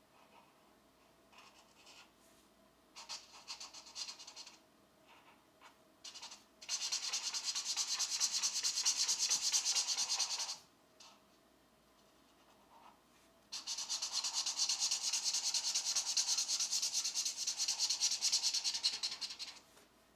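Pencil shading on coloring-book paper: a few short light strokes, then two long stretches of rapid back-and-forth scratchy shading, about four and six seconds long, with a short pause between.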